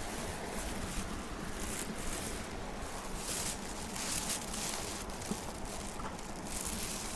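Wind buffeting the microphone, with a low uneven rumble and gusting swells of rustling vegetation.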